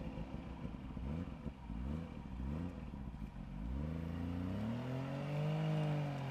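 Suzuki four-wheel-drive's engine revving in short, repeated throttle blips while it climbs over rocks. About four seconds in it rises into one longer, higher rev that eases off slightly near the end.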